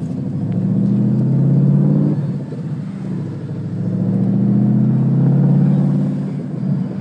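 2013 Ford Mustang GT's 5.0-litre V8 with the muffler and resonator deleted, running with a loud, low exhaust note that swells up twice, peaking around two seconds in and again around five seconds in.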